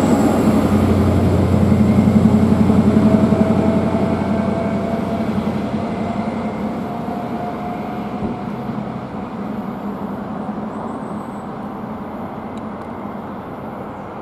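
First Great Western High Speed Train passing at speed, its rear Class 43 diesel power car going by loudly about two seconds in. The engine and wheel noise then fade steadily as the train runs away into the distance.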